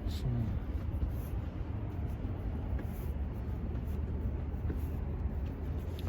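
Steady low rumbling background noise outdoors, with a few faint clicks.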